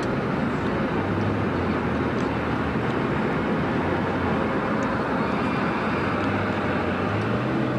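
Steady noise of a truck driving, heard from inside the cab: engine hum under a constant road rumble.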